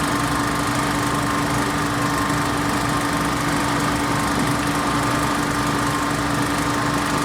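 An engine running steadily at a constant speed, with a steady hum and a low rumble. It is most likely a machine on a construction site.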